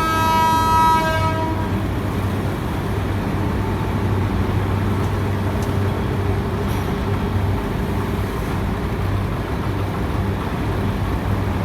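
Powertrac tractor's diesel engine running steadily, likely under load. A horn-like steady tone fades out in the first second or so.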